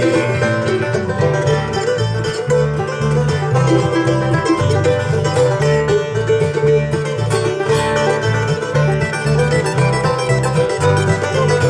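Acoustic bluegrass band playing an instrumental break without vocals: fast plucked banjo and guitar over a bass line that changes notes steadily.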